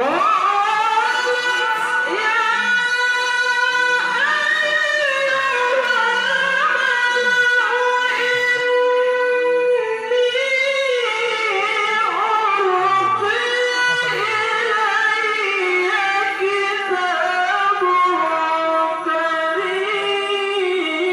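A qari recites the Qur'an in a high melodic style, holding one long, ornamented phrase of about twenty seconds with wavering turns and held notes.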